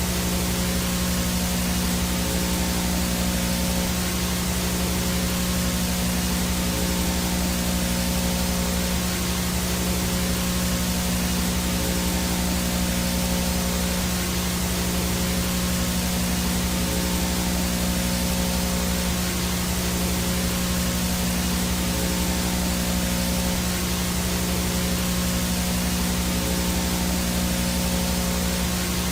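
Analog VHS static: a steady hiss with a low electrical hum and buzz underneath, the sound of a video signal with no picture and interference. It stays constant throughout.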